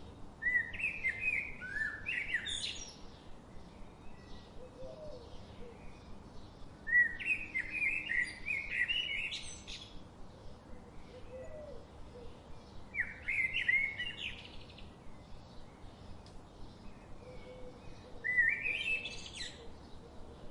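A songbird singing four separate phrases of quick chirping notes, each phrase climbing in pitch toward its end and spaced several seconds apart. A steady faint hiss lies underneath.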